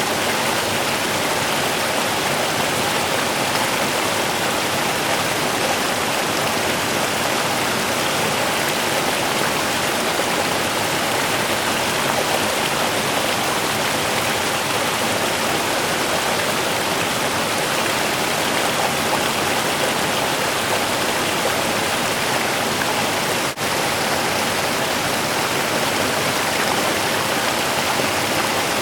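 A small river running steadily over rocks, an even rushing and burbling of water, with one momentary dip in level about three-quarters of the way through.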